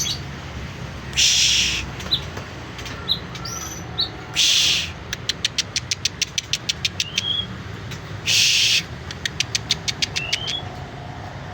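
White-rumped shama calling: three harsh, hissy notes of about half a second each, two quick runs of sharp clicks at about seven a second, and a few short rising whistles.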